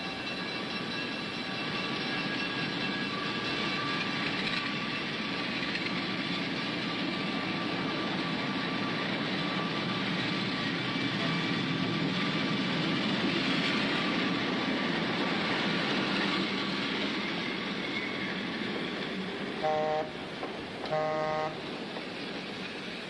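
Passenger train running along the track with a steady rumble and clatter of wheels on rails, and two short toots near the end.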